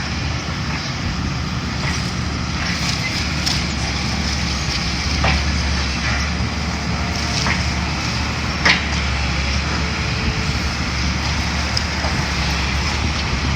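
Heavy demolition machine's engine running steadily while it breaks apart an old building, with scattered cracks and crunches of breaking material; the sharpest crack comes near nine seconds in.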